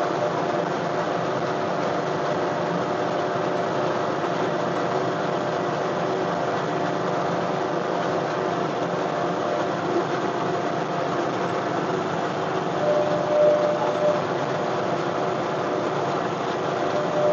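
John Deere 1025R compact tractor's diesel engine running steadily with a steady whine over it. It swells briefly louder about thirteen seconds in.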